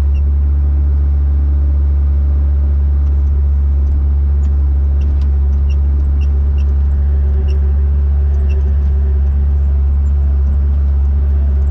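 Bobcat skid-steer loader's diesel engine running steadily, a deep constant drone that does not change in pitch.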